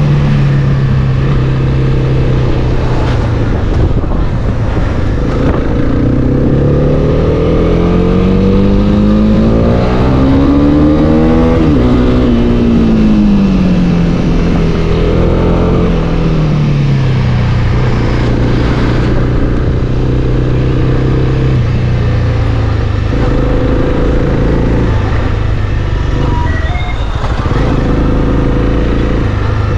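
Honda CB300R's single-cylinder engine running under way, its pitch holding low, then climbing steadily for about five seconds as the revs rise before falling back and settling again.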